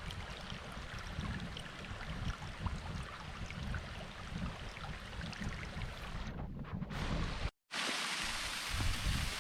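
Wind buffeting the microphone as a fluctuating low rumble over a steady rushing hiss. The sound drops out for an instant about seven and a half seconds in and comes back as a brighter, steadier hiss.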